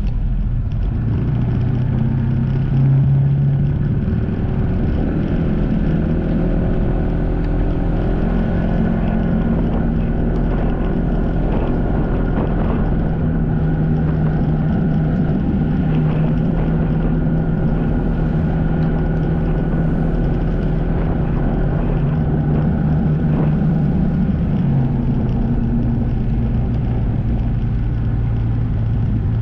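Watercraft engine running steadily under way, its engine speed shifting up and down a few times.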